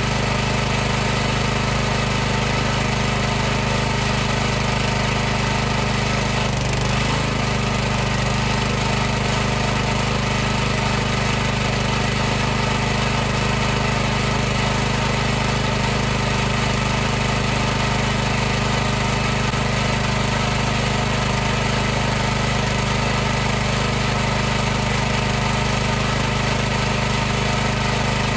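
High-pressure washer running steadily, a constant machine hum over a spray-like hiss. Its pitch wavers briefly about seven seconds in.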